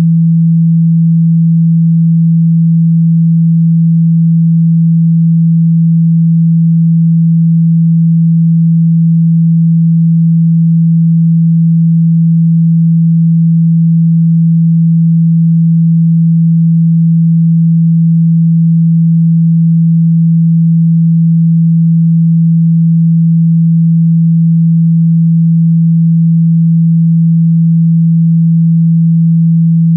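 A steady 165 Hz sine tone, low and unchanging, played to vibrate a speaker's cone to shake out dust and water.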